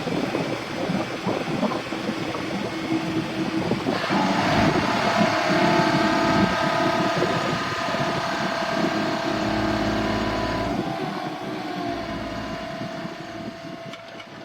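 Engine on a GMC C7500 chipper dump truck running steadily; about four seconds in a steady higher whine joins it and holds for several seconds, and near the end the sound fades out.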